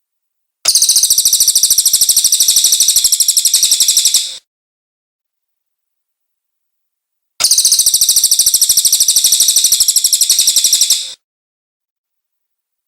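Recorded song of a cililin bird: two bursts of rapid, high-pitched repeated notes, each about four seconds long, that start and stop abruptly with silence between them.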